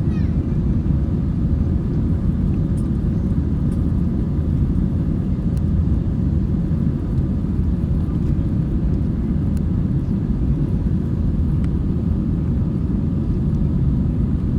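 Steady low rumble of engine and airflow noise heard inside the cabin of a jet airliner in flight, with a faint steady hum above it.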